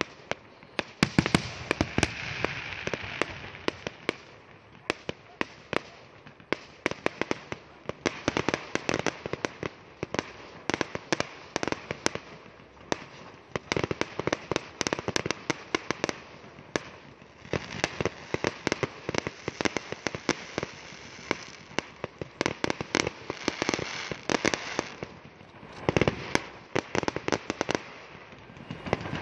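Aerial fireworks display: shells bursting in a dense, almost continuous stream of sharp bangs and crackling.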